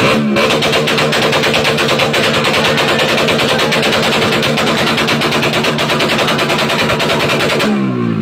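Racing motorcycle engine free-revving on a rear stand: quick throttle blips give way, a moment in, to the engine held at high revs with a rapid, even crackling rattle, and the blips return near the end.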